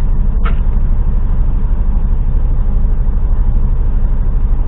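A heavy goods vehicle's diesel engine running steadily with a low, even throb, heard from inside the cab, and a brief click about half a second in.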